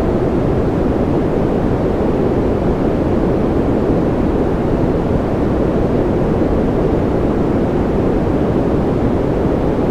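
Steady, unchanging noise of the kind played for sleep, sold as white noise but deep in tone, with most of its strength low down rather than bright. It holds an even level with no events or variation.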